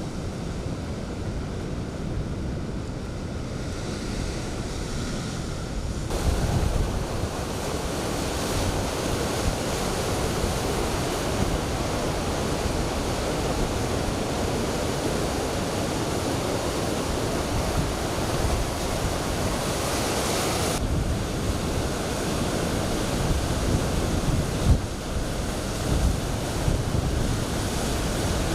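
Heavy typhoon surf crashing and rushing, with strong wind buffeting the microphone. The noise changes abruptly, growing fuller and brighter about six seconds in, then shifting again about twenty-one seconds in and near the end.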